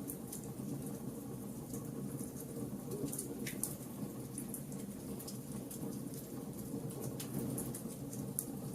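Wood fire burning: a steady low rush of flames with frequent sharp crackles and pops of burning wood, irregular and scattered throughout.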